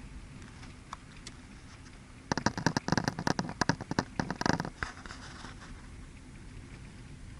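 A burst of dense crackling and scraping, about two and a half seconds long, starting a couple of seconds in.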